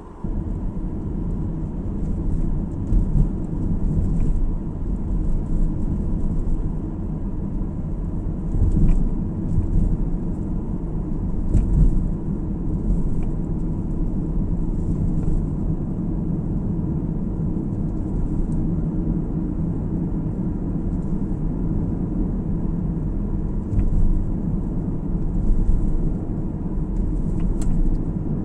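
Steady low road and engine rumble heard inside a moving car's cabin, with a few faint clicks and small swells in loudness.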